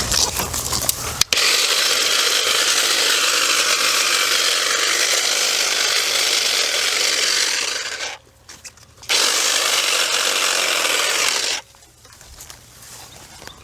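Battery-powered electric cutting tool running and cutting through brush and small trees. It runs for about six seconds, stops for a moment, runs for a couple of seconds more, then stops.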